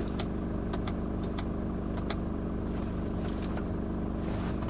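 Chevrolet Orlando's 2.0 VCDI four-cylinder turbo diesel engine idling steadily, heard from inside the cabin as a low even hum. A few light clicks from dashboard controls being pressed sound over it.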